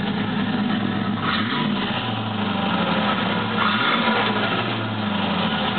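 Exhaust of a 1995 Land Rover Discovery's 3.9-litre V8 with a Spintech muffler, running rough at idle and given two short blips of throttle, about a second and a half in and near the middle. The rough running comes from engine issues the owner has not yet fixed.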